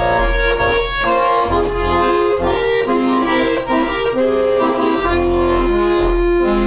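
Accordion playing an instrumental interlude of a song, a melody of held notes over a bass line.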